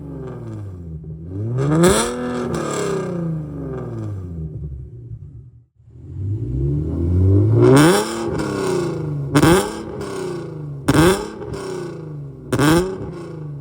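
Infiniti Q50's VQ37VHR 3.7-litre V6, breathing through long-tube headers and a full Tomei exhaust, revving. It rises and falls once, breaks off briefly, then climbs again and gives three quick, sharp rev blips near the end.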